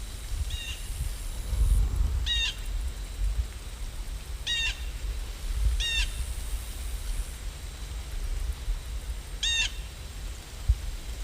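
A bird calling five times in short, separate calls spread over several seconds, over a steady low rumble.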